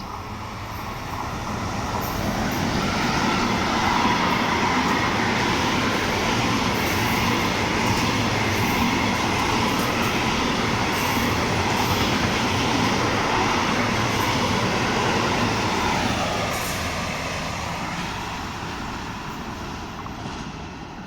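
Train hauled by an E 483 electric locomotive passing along the track. The noise builds over the first few seconds, holds loud and steady, then fades away over the last few seconds.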